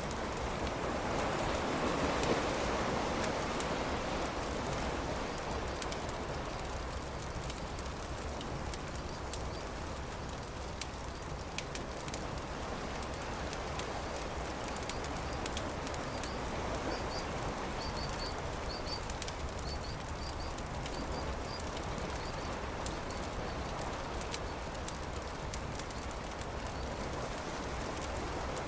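Campfire crackling with scattered sharp pops over a steady wash of surf that swells near the start and again in the middle. A few faint high chirps, likely a bird, come about two-thirds of the way through.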